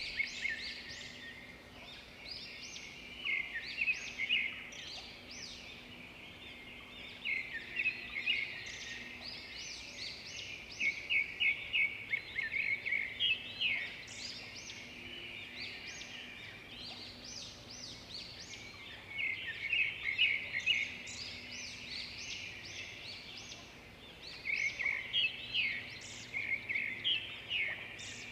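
Several small songbirds singing and chirping at once, with bursts of quick repeated notes every few seconds.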